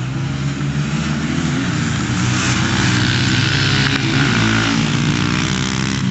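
Dirt bike engine running at fairly steady revs, growing louder over the first three seconds as it comes closer, then easing slightly near the end.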